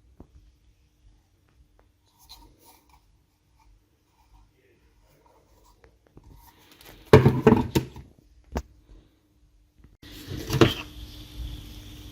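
Faint rubbing and handling noises, then a loud clatter about seven seconds in and a sharp click shortly after. A steady hum with a faint high tone starts about ten seconds in.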